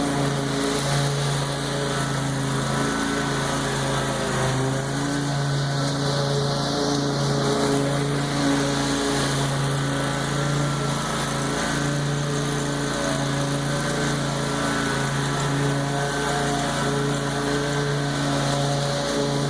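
Lawn mower engine running steadily while cutting tall, overgrown grass, its pitch dipping briefly now and then as the engine takes the load.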